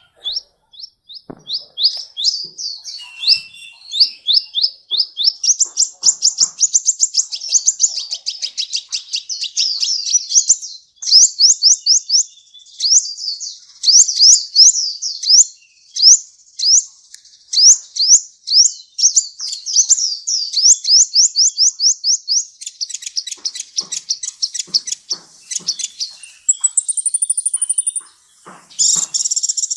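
Sunbird ('kolibri ninja') singing: a fast, unbroken chatter of high, sharply down-slurred notes, several a second, with a brief higher trill near the end.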